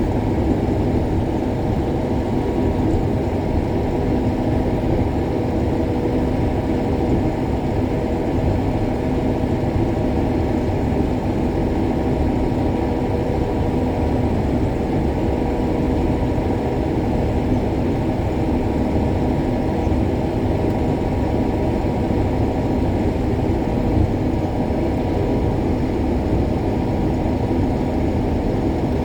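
A combine harvester running steadily under load: a dense, even engine and machinery hum with a couple of steady tones in it, and no change in the sound throughout.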